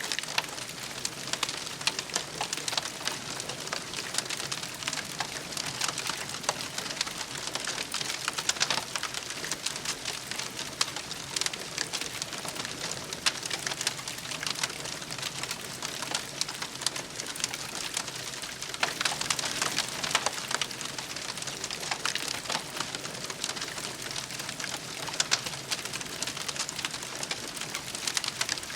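Wood campfire burning, crackling with many small sharp pops over a steady hiss.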